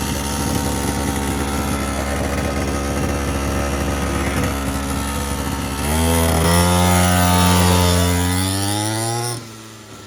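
Small 50cc quad bike engine running steadily, then opened up, getting louder with its pitch rising for about three seconds before dropping away suddenly near the end.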